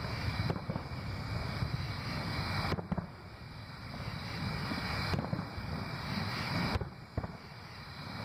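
Distant aerial fireworks: shell bursts come through as low rolling booms, with a few sharper reports about three seconds in and again around seven seconds in.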